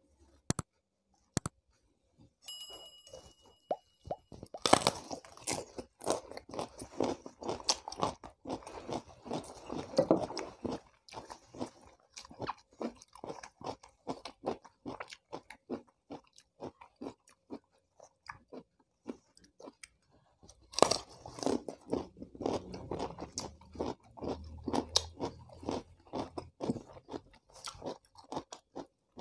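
Close-miked crunching and chewing of raw papaya leaf stalks, fibrous and crisp, in irregular bites that run on throughout. Near the start come a couple of sharp snaps as a stalk is broken off the leaf.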